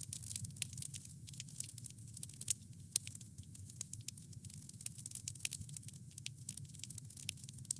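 Wood fire crackling steadily, with frequent sharp pops and snaps over a low rumble of the burning fire; a few louder pops, one about three seconds in.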